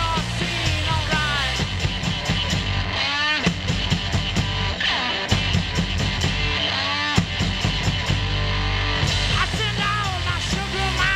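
Rock band playing live: guitar, bass, drum kit and tambourine.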